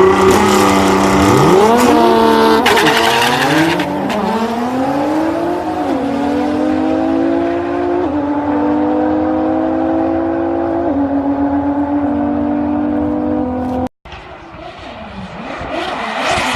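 Toyota Supra engine revving up and down hard under a loud rushing hiss for the first few seconds. It then holds high, nearly steady revs, with the pitch stepping down slightly a few times. About fourteen seconds in, the sound cuts abruptly to another burst of rising and falling revs.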